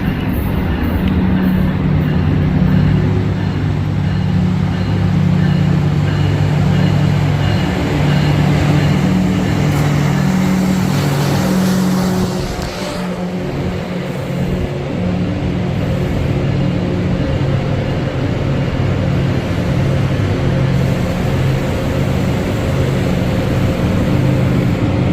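Diesel locomotive engine running close by, its low drone stepping between a few pitches. A brief hiss comes through about halfway through.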